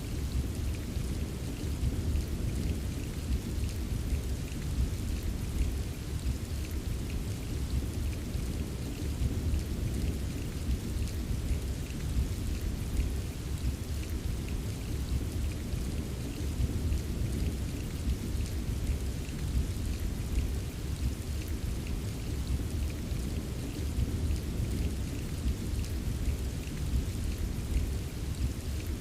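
Steady rain ambience: a dense, even patter of raindrops over a continuous low rumble, with no single drop or clap standing out.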